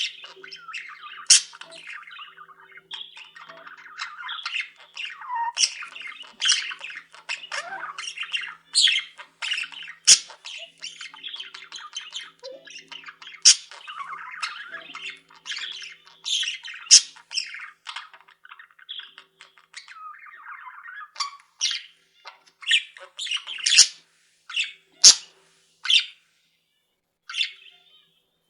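Pet budgerigars chattering, with frequent sharp squawks over a busy warbling background. The chatter thins out in the last several seconds to single sharp calls with short pauses between them.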